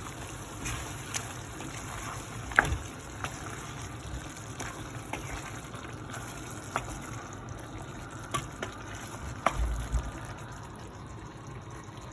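Chicken curry simmering in a covered pot on the stove: a steady liquid hiss with scattered sharp pops and clicks.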